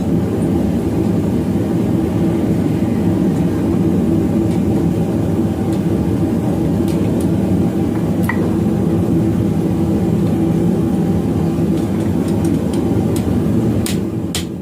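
Blacksmith's forge running: a loud, steady rush of noise with a low hum, as the steel bar heats between hammering sessions.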